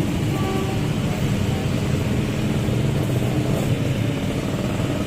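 Heavy truck engine running steadily, a continuous low rumble with road noise.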